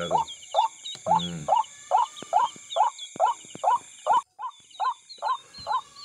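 A bird's short chirping call repeated about twice a second, each note rising then falling, over a steady high drone of night insects. There is a brief low voice-like sound about a second in, and a short break about four seconds in.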